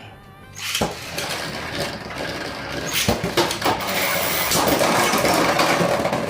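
Beyblade spinning tops launched into a plastic stadium about a second in, then spinning, scraping and clashing against each other with a continuous rapid clatter of hard plastic hits.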